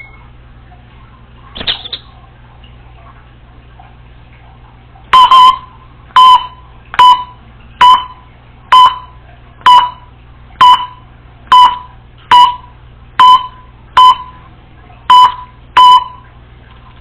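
Congo African grey parrot giving a run of about a dozen loud, sharp beep-like calls, about one a second, mimicking an electronic beep. It starts about five seconds in, after a single shorter call near two seconds.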